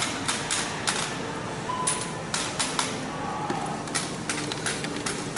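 Irregular sharp clicks and taps, a few a second, with a short electronic beep about two seconds in.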